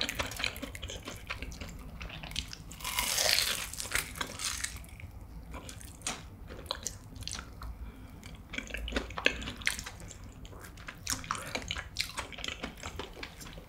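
Biting into and chewing a deep-fried, breadcrumb-coated sweet potato cheese pork cutlet, close to the microphone. There is a loud run of crunching about three seconds in, then softer chewing with scattered small crunches and clicks.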